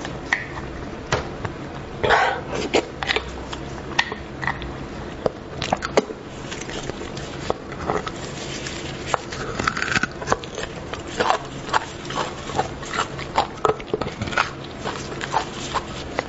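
Close-miked eating of beef bone marrow: wet chewing and mouth smacks as meat and marrow are bitten off a beef bone, in many short, irregular clicks.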